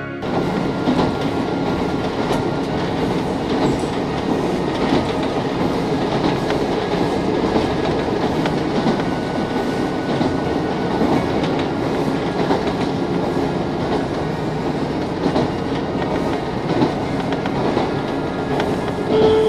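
A diesel railcar running on the line, heard from inside the car: a steady rumble of engine and wheels with the clickety-clack of rail joints. A rising chime begins right at the end.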